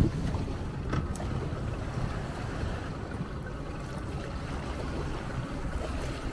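Motorboat running on the water: a steady low rumble with wind buffeting the microphone. There are a couple of short knocks at the start and about a second in.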